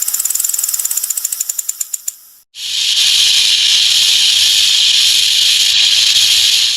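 Snake sounds: a rapid rattle of dry clicks that fades over about two seconds, then, after a brief pause, a steady hiss lasting about four seconds.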